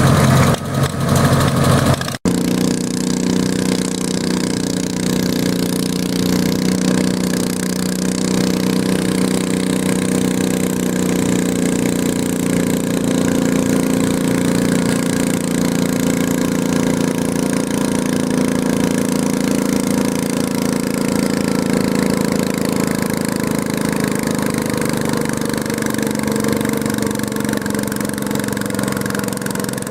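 Garden tractor engine running steadily, its pitch easing down slightly near the end. The sound cuts out briefly about two seconds in.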